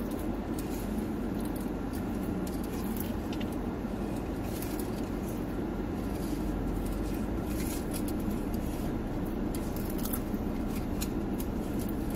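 Chewing a crisp fried peach mango pie, with small crunchy clicks of the crust scattered through, over the steady hum of a car's air conditioning inside the cabin.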